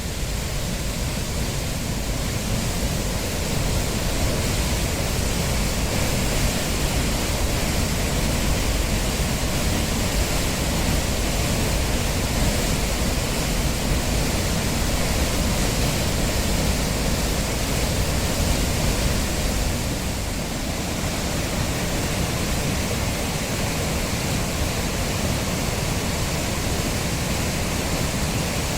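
Nunobiki Falls pouring heavily, its flow swollen after rain: a loud, steady, unbroken rush of falling water.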